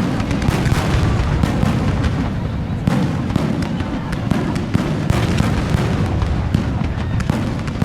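Fireworks display: a dense, continuous barrage of exploding aerial shells, many sharp bangs in quick irregular succession over a rumbling wash of echoes.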